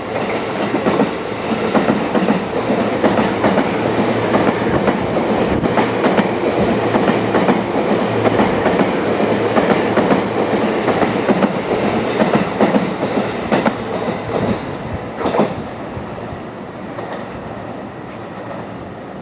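JR East 251 series Super View Odoriko electric train running through a station at speed without stopping. Its wheels click over the rail joints in a dense, loud rush that fades over the last few seconds as the train moves away.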